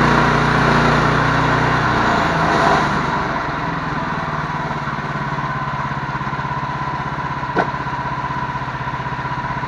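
Engine running steadily, then throttled back to a lower idle about two to three seconds in, with one short sharp click later on.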